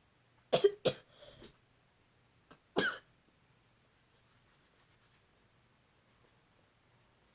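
A person coughing: two sharp coughs about half a second in, a softer one right after, and another cough about three seconds in.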